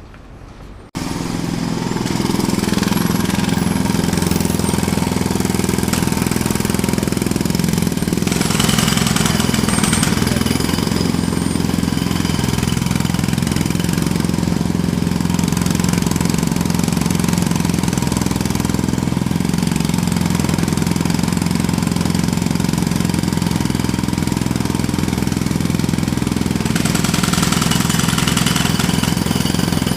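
Jackhammer starting abruptly about a second in and then hammering loudly and steadily.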